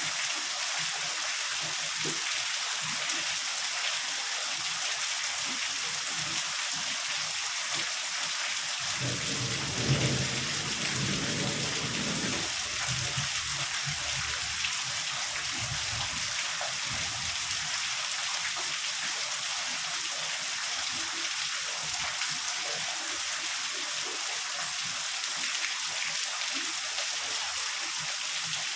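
Heavy rain falling steadily, with a roll of thunder starting about nine seconds in, sharpest at its onset and rumbling away over several seconds.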